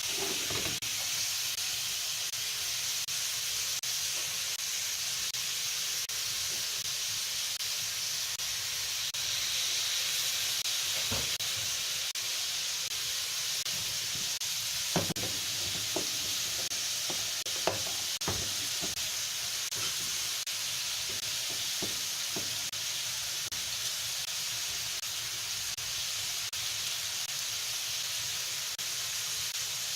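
Kimchi and pork belly stir-frying in a pan with a steady sizzle. Several sharp knocks sound in the middle.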